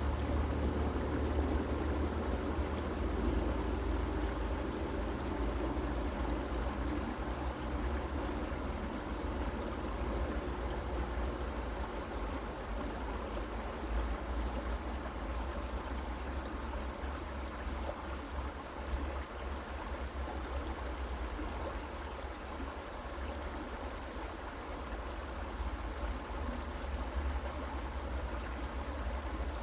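Creek water running steadily, an even rushing noise with a steady low rumble underneath.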